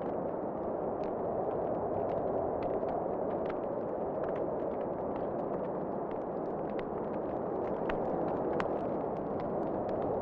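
Wood fire crackling, with scattered small pops and snaps over a steady, even rush of wind.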